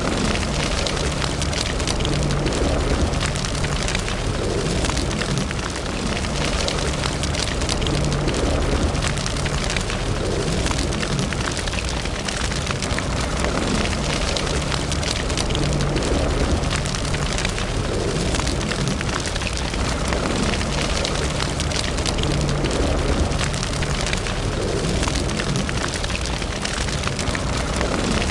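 Wood fire in a fireplace crackling, with many small pops over a steady low rush of the flames.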